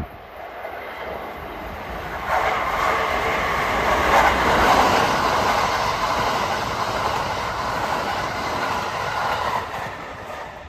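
Kintetsu 2800-series and 1810-series electric train running along the station platform. Its noise builds, turns loud about two seconds in, stays loud for about seven seconds, then drops away near the end.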